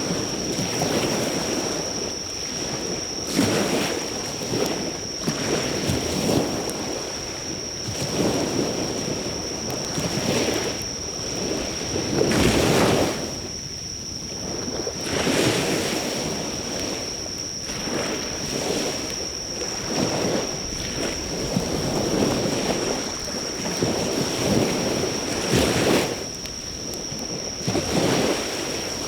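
Sea waves washing onto the shore, swelling and falling back every few seconds, with insects singing in one steady high note throughout. The crackle of the driftwood fire is faint beneath the surf.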